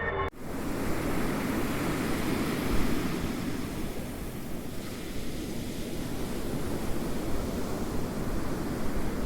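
Ocean surf: waves rolling and washing in a steady rush that swells and eases. A ringing tone cuts off abruptly right at the start.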